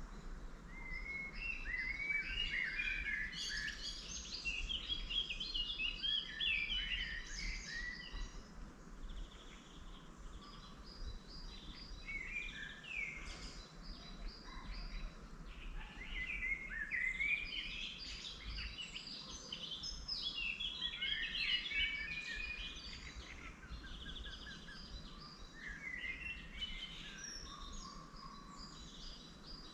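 Several wild songbirds singing at once in spring, with overlapping phrases and quick repeated trills that come and go in waves. A steady low rumble runs underneath.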